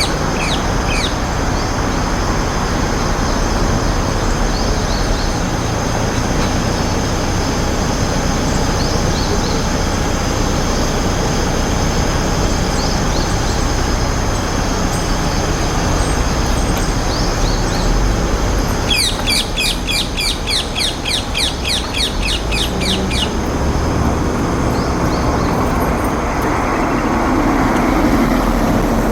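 Feral rose-ringed parakeet calling: a few short shrill calls near the start, then, about two-thirds of the way through, a rapid run of loud shrill calls at about four a second for some four seconds. Steady road-traffic noise runs underneath.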